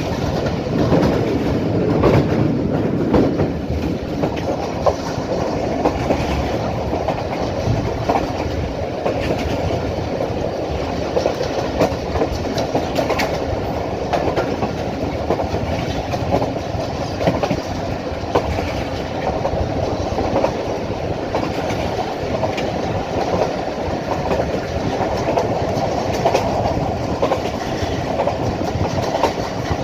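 Passenger train running at speed: a steady rumble of wheels on the track, with frequent short clicks and clatter as the wheels pass over rail joints.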